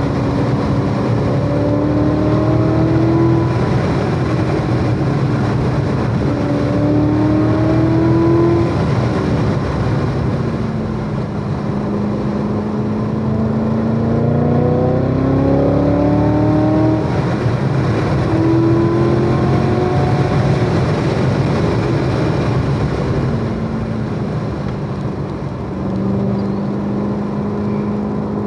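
Chevrolet Corvette C7 Z06's supercharged 6.2-litre V8 running hard on track. Its pitch climbs under acceleration several times and drops back between climbs as the car shifts or lifts for corners, with one longer, slower climb midway.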